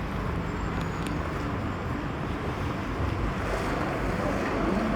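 Steady rushing outdoor ambience of a seaside city street: an even low noise with no distinct events.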